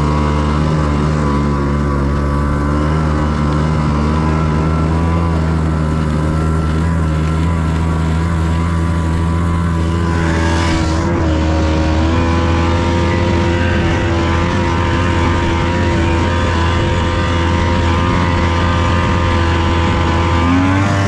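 Snowmobile's 277cc engine running steadily under load while towing a trail-grooming drag through snow. The engine note shifts about halfway through and rises briefly near the end.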